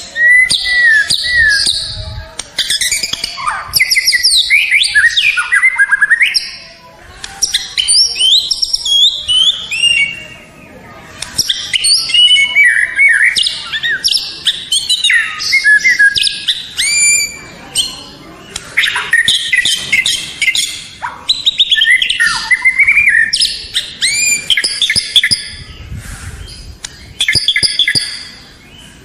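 White-rumped shama (murai batu) singing: loud, varied phrases of clear whistles, slurred rising and falling notes and fast chattering trills, delivered in bursts with short pauses between them.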